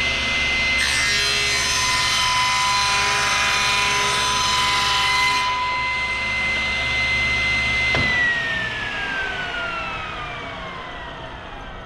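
10-inch table saw running at full speed, its blade cutting through a wooden leg for a tenon shoulder for about four seconds, then running free. About eight seconds in the motor is switched off and the whine falls steadily in pitch as the blade coasts down.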